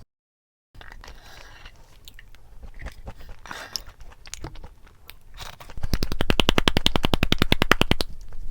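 Close crunching and chewing sounds, then about two-thirds of the way in a loud, rapid, even run of clicks, more than a dozen a second, lasting about two seconds.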